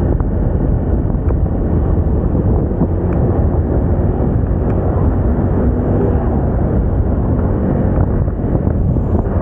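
Moda Moca 110 scooter's small single-cylinder engine running steadily under way, with wind rushing over the microphone.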